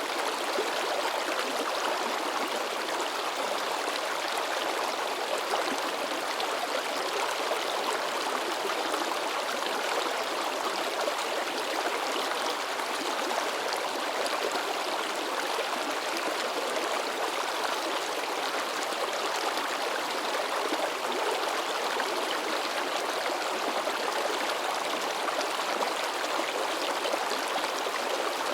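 Babbling stream splashing over rocks, a steady, even rush of running water.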